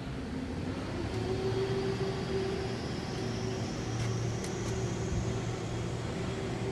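Cab interior of a 2008 Sterling HX9500 truck under way: a steady engine and road drone, with a high whine slowly rising in pitch.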